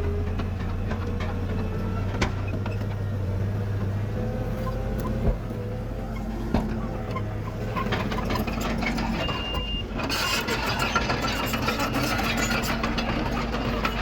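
Heavy diesel earthmoving machinery running steadily with a low engine drone. There are a few sharp knocks, a short high beep just before ten seconds in, and then a busier rattle and clatter.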